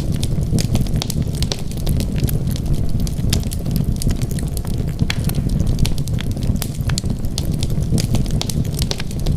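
Wood fire burning in a fireplace: a steady low rumble of flames with many sharp crackles and pops scattered irregularly throughout.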